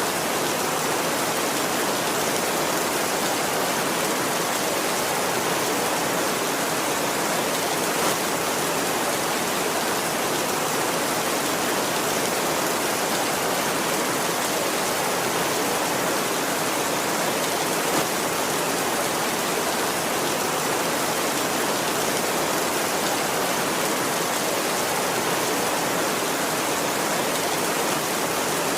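Heavy rain falling steadily on a tin roof, a dense, even hiss with no let-up.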